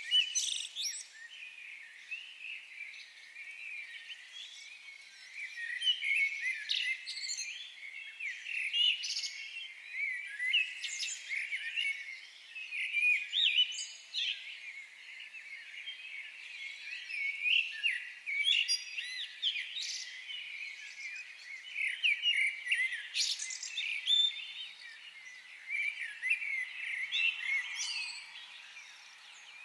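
Several birds calling and singing at once in a forest: a constant overlapping chorus of short chirps and trills, with louder phrases every second or two.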